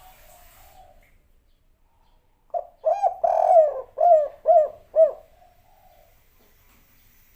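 Spotted dove (tekukur) singing one cooing phrase: a run of low coos that ends in three separate short notes, the 'kuk 3' pattern. A faint short coo comes just before it.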